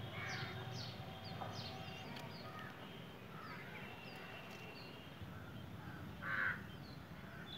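Birds calling in a garden: many short, high chirps throughout, with one louder, harsher call about six and a half seconds in, over a steady low background hum.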